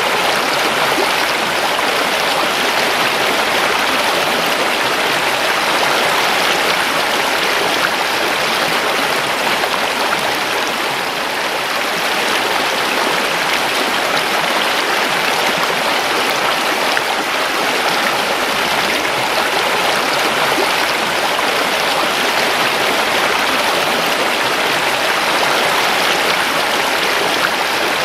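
A river's water rushing steadily over rocks, an even, unbroken rush.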